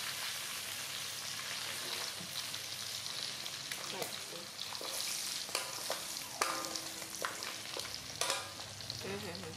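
Steady sizzle of food frying in hot oil, with a few sharp clicks scattered through it.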